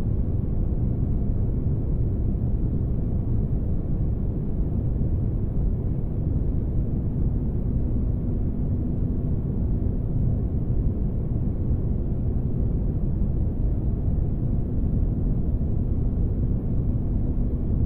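Spaceship-cabin ambience: a steady, deep rumbling noise with a faint steady hum running through it.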